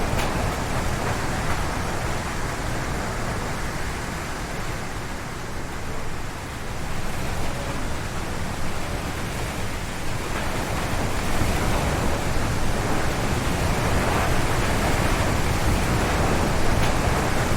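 Strong wind gusts howling through a forest, with a deep rumble underneath. The wind eases slightly, then builds again from about ten seconds in.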